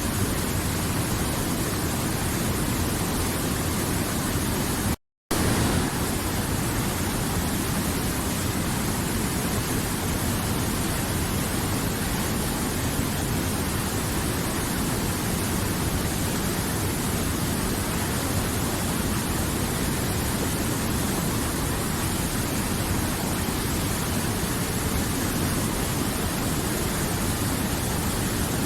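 River water flowing in a steady, even rush with no let-up. The sound cuts out completely for a fraction of a second about five seconds in, then resumes unchanged.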